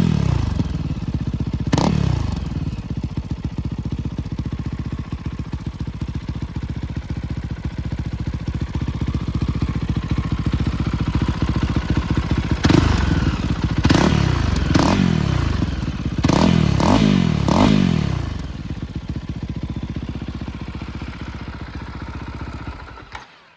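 Fantic Caballero 500 Explorer's single-cylinder engine breathing through an Arrow aftermarket exhaust, idling with a short throttle blip about two seconds in and a quick run of about six revs in the middle. It is then shut off just before the end.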